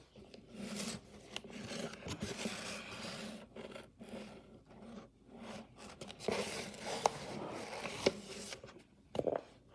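Irregular scraping and rubbing, with a few sharp clicks and knocks in the second half.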